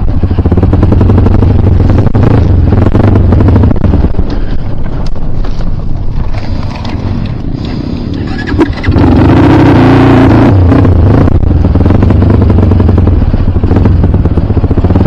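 Kawasaki KLX dirt bike engine running hard under throttle. It eases off for a few seconds in the middle, then is opened up again about nine seconds in, with the revs climbing.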